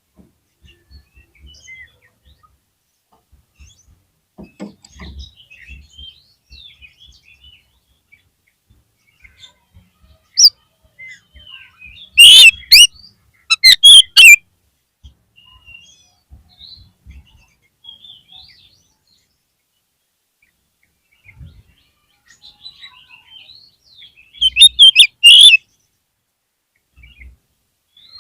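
Oriental magpie-robin (kacer) calling: scattered soft chirps and short whistled phrases, with several loud harsh bursts about halfway through and again near the end.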